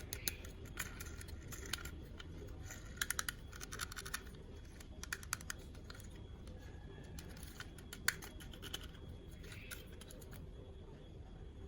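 Toy packaging being handled and opened: quiet rustling with scattered small clicks, a quick run of clicks about three seconds in and one sharper click about eight seconds in.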